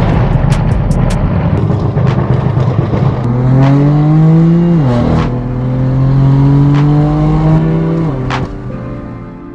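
Straight-piped BMW M4 F82's twin-turbo inline-six through an AWE Track exhaust: a loud exhaust note with sharp pops and cracks. The engine pitch climbs under acceleration, drops abruptly at an upshift about five seconds in, then holds steady and fades near the end.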